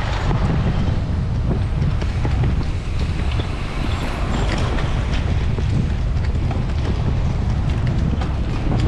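Wind buffeting the microphone of an on-board camera on a bicycle at racing speed: a steady low rumble with a few faint clicks.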